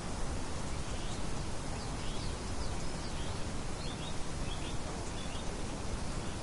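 Steady wind noise with faint, short high bird chirps in a brief run near the middle.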